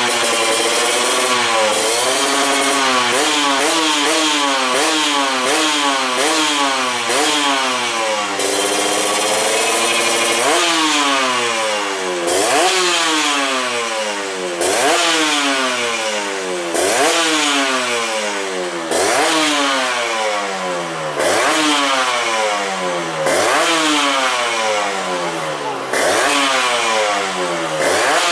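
Kawasaki Ninja 150 R's two-stroke single-cylinder engine, breathing through an aftermarket Vyrus exhaust, revved in repeated throttle blips while its carburettor and ignition timing are set. For the first few seconds the blips come quickly, about three every two seconds. After a short steadier hold, sharper blips follow about every two seconds, each climbing fast in pitch and then dropping back.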